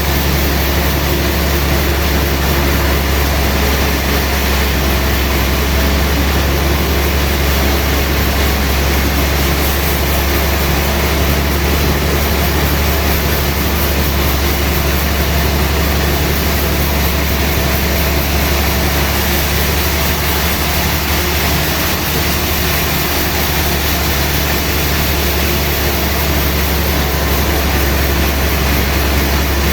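Sawmill machinery running steadily with a deep, even hum and no change in load.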